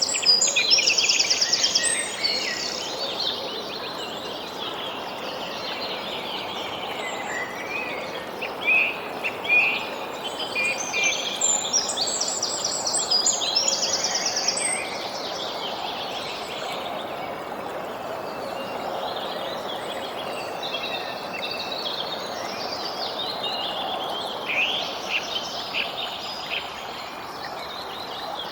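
Several small birds chirping and trilling, busiest in the first couple of seconds and again around the middle, over a steady background hiss.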